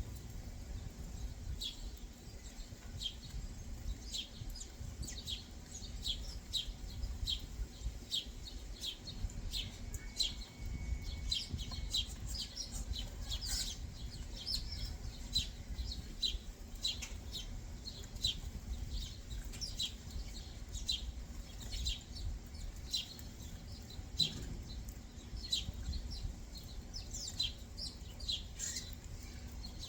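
Small backyard birds chirping: a steady run of short, high chirps, roughly two a second, over a low background rumble.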